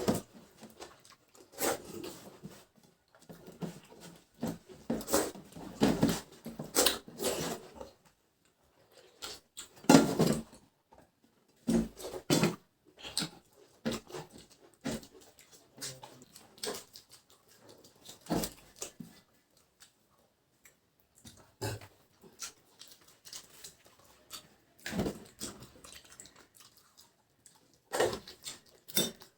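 Two people eating a rice meal fast in an eating challenge: irregular, close-up chewing, smacking and slurping mouth sounds in short clusters with brief pauses between.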